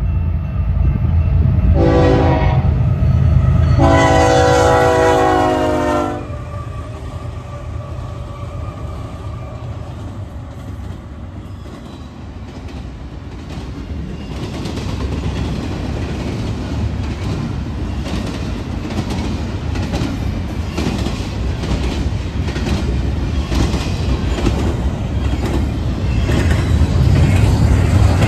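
BNSF intermodal freight train passing close by. The diesel locomotives sound their horn twice, a short blast then a longer one, over a heavy engine rumble. Then the cars roll past with a steady clickety-clack of wheels over the rail joints, growing louder again near the end.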